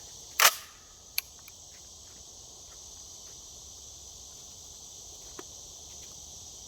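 Crickets chirping steadily outdoors, with one loud sharp noise about half a second in and a small click about a second in.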